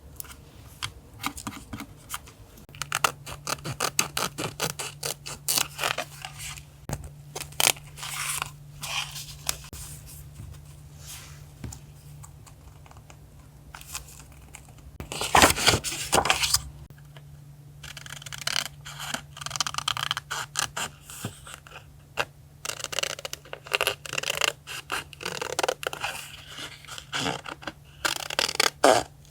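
Paper and stickers handled for collage journaling: irregular scraping, scratching and tearing strokes, loudest in a cluster about halfway through. A steady low hum comes in behind it a few seconds in.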